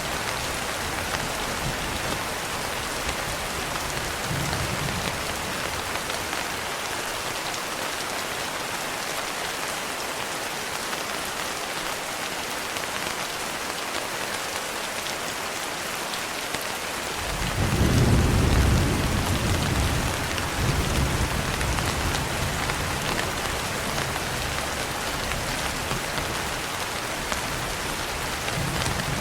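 Steady rain pattering on a window, with a low roll of thunder swelling up a little past halfway, loudest for a second or two, then rumbling on more faintly.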